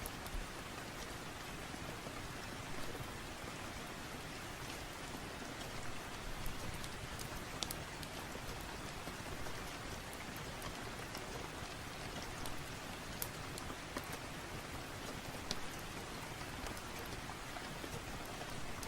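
Steady rain falling, with scattered sharp clicks and pops over it.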